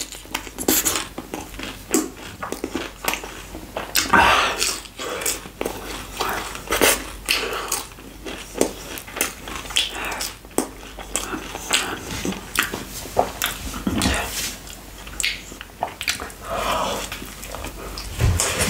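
Close-miked chewing of chicken pizza topped with fries, with many irregular wet mouth clicks and smacks.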